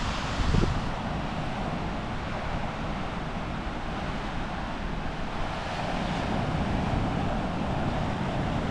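Steady ocean surf washing on the beach, with wind buffeting the microphone and a brief low thump about half a second in.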